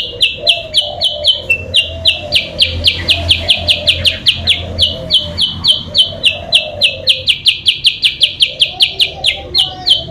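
Malaysian pied fantail (kutilang sutra) lure call: a fast, even series of short, high chipping notes, about four a second, with a fainter, lower wavering sound underneath.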